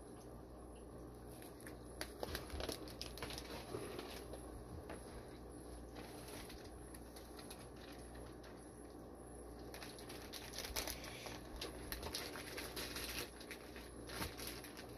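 Faint rustling and crinkling of plastic fish-shipping bags being handled, with scattered small clicks, busier near the end.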